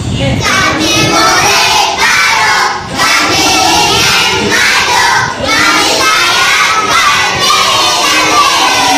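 A class of young schoolchildren singing loudly together in unison, with brief breaks between lines.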